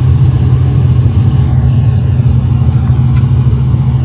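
Loud, steady low rumbling hum picked up by a phone sleep recorder, like a train passing, of unknown origin. A faint short tick about three seconds in.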